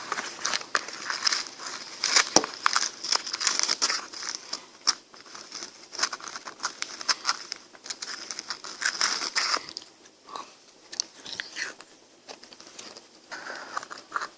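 Close-miked biting and chewing of a frozen ice bar, with crisp crunching and crackling of the ice. The crunches come thick and fast, then thin out and grow quieter about two-thirds of the way through.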